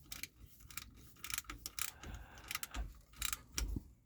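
Scattered light metallic clicks and clinks of hand tools, irregular, with a couple of soft low thumps near the end.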